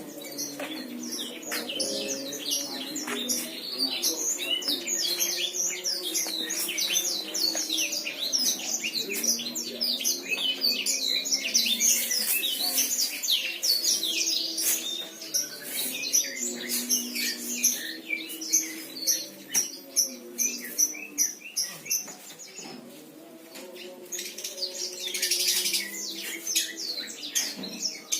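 Many small birds chirping and twittering at once in fast, overlapping calls, with lower held notes underneath.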